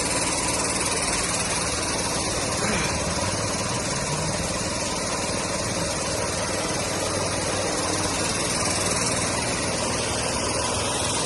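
A machine's motor running steadily: a constant, even noise with a low hum underneath.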